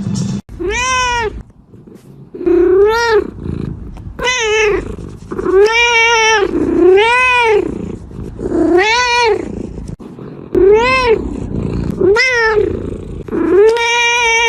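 A cat meowing over and over: about ten drawn-out meows, each rising and then falling in pitch.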